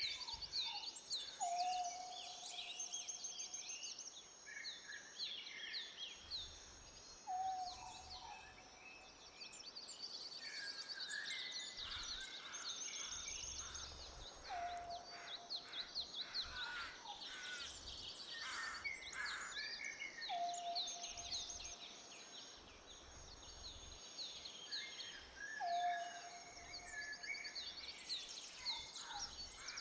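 Many songbirds chirping and trilling together, with a lower call that dips and then holds, repeating about every five or six seconds.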